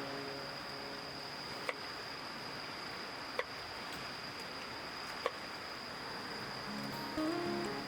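Insects calling in one steady, even high-pitched tone, over a soft background hiss. Four short sharp clicks come roughly every two seconds.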